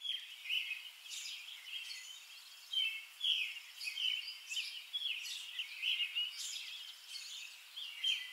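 Songbirds chirping and singing, a steady run of short, quick calls overlapping one another.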